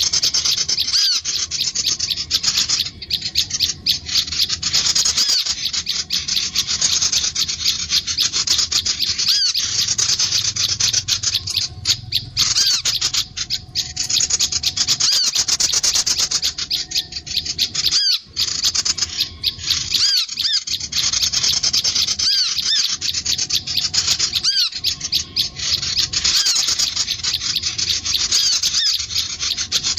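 Sunbirds and prinias calling: a dense run of rapid, high-pitched chirps and trills, many calls overlapping, with only brief breaks.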